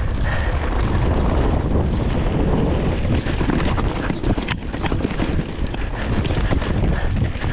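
Mountain bike riding fast down a rough, rooty forest trail: wind buffeting the camera microphone in a steady rumble, with tyre noise and the bike clattering over bumps in many short knocks, one sharper knock about halfway through.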